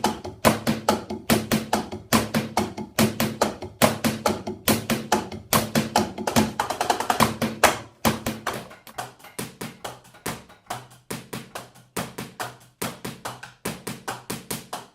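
Drumsticks playing a steady groove on the mesh and rubber pads and kick pad of a Roland electronic drum kit, heard unamplified: dry taps and thuds of stick on pad rather than drum sound. The playing gets somewhat softer about halfway through.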